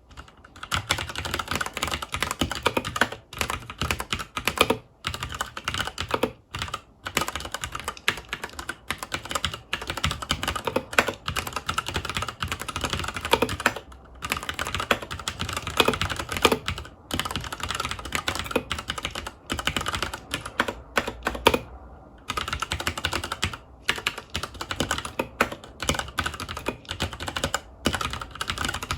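Continuous fast typing on a FILCO Majestouch 2 tenkeyless mechanical keyboard with Cherry MX Brown switches: a dense, uneven stream of key clacks with a few short pauses.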